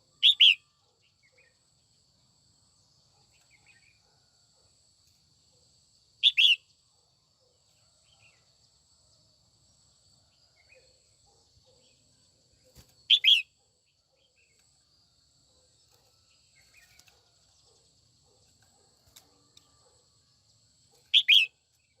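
Female red-whiskered bulbul giving four short double-note calls several seconds apart. This is the female's call used to stir males into singing.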